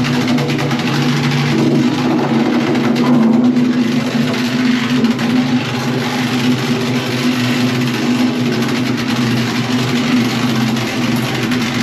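Vibratory plate compactor's small petrol engine running steadily as it packs down a bed of stones under a slab.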